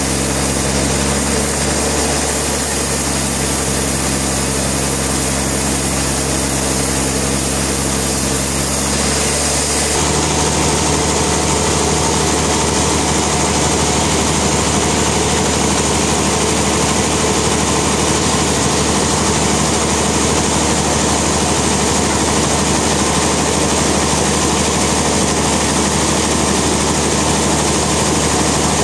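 Sawmill machinery running steadily; about ten seconds in, the sound turns fuller and hissier and stays that way.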